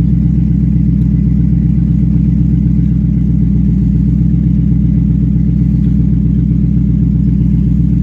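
Dodge Challenger SRT8's 6.1-litre Hemi V8 idling steadily, not yet warmed up, through a Corsa exhaust with its switchable baffles open. A deep, even burble with no revving.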